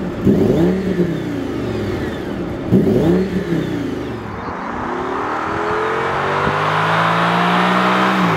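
Audi S6's naturally aspirated 5.2-litre V10 being revved in Park, two quick blips that rise and fall in pitch. From about halfway on, the engine note climbs steadily as the car accelerates.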